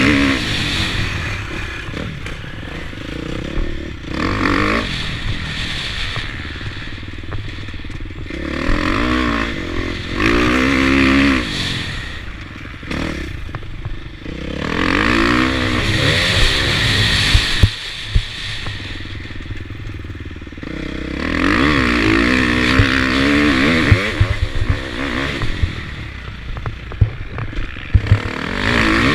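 KTM motocross bike engine, heard on board, revving hard and backing off again and again, its pitch rising and falling through about five cycles. Wind rushes over the microphone with each burst of speed. Several sharp knocks come in the second half.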